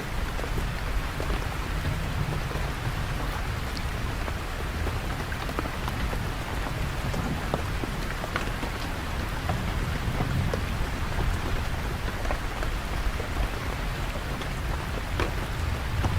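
Steady rain falling, with individual drops ticking sharply on nearby surfaces and a low rumble swelling and fading underneath.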